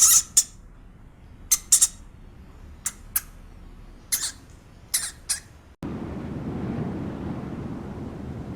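Short, sharp bird calls, mostly in quick pairs, over a faint steady background; about six seconds in they stop abruptly and a steady rushing noise takes over.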